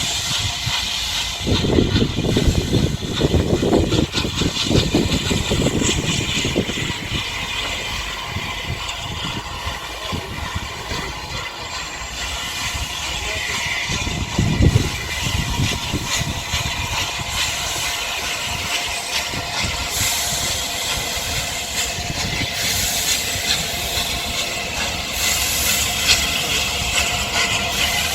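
Steam train running with a steady hiss of steam, and a heavier low rumble in the first few seconds and again briefly midway.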